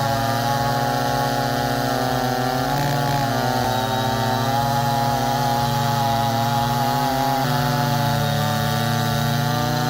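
Chainsaw running steadily at a fairly constant speed, its pitch shifting slightly a few times.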